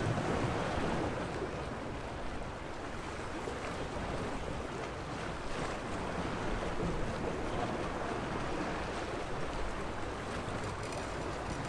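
Sea waves washing steadily against the shore, a continuous rushing wash of water with a slight swell about the first second.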